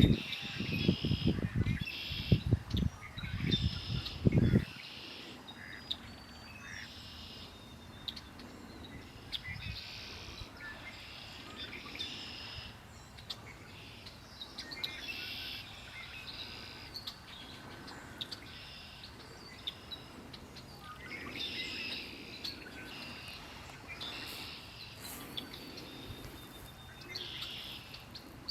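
Songbirds singing outdoors, with short high song phrases repeating every second or two. A loud low rumble in short surges fills the first few seconds, then stops.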